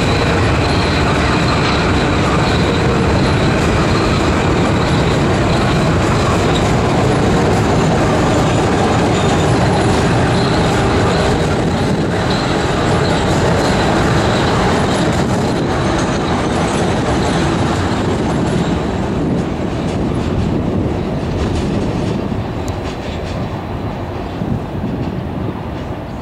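Metro-North commuter train running past close by on elevated track: loud, steady rumble and clatter of wheels on rail, with faint high squealing tones. It fades over the last several seconds as the final cars go by.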